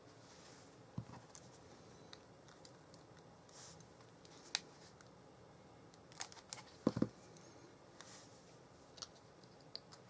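Paper-crafting handling sounds: scattered light clicks and taps of card and small pieces being handled and pressed onto a card, with a brief cluster of louder taps about six to seven seconds in.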